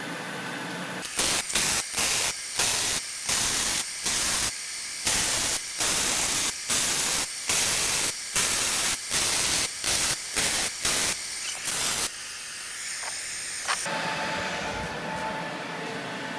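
Electric arc welding on a steel base plate: the arc crackles in short, even bursts about two a second, as in stitch welding, then stops near the end, leaving a fainter hiss.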